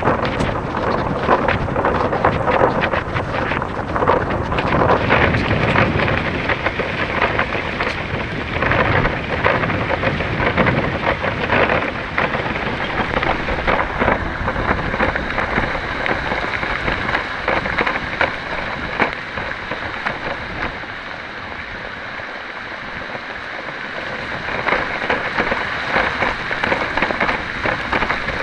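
Heavy rain pouring down, with a low rumble under it through the first half. The rain eases a little past the middle, then picks up again, and a thin steady high tone sounds through the second half.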